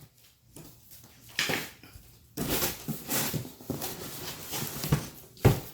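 Rustling and scraping of packaging and parts being handled, with two sharp knocks near the end.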